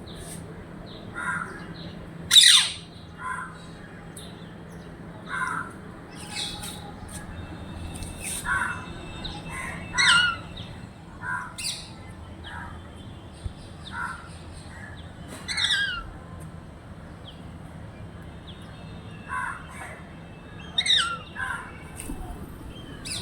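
Birds calling: short, shrill squawks and chirps every second or two, several sliding down in pitch, the loudest about two and a half seconds in.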